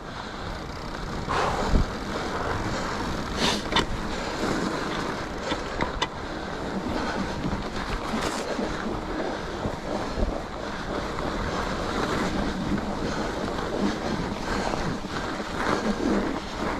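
Mountain bike ridden along a snow-covered trail: steady rushing noise of tyres and wind on the microphone, with a few sharp knocks from the bike over bumps.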